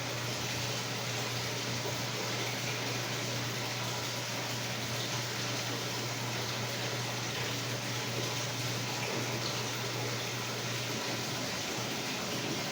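Samsung WA45T3200AW top-load impeller washer with water running steadily in its tub over a constant low hum.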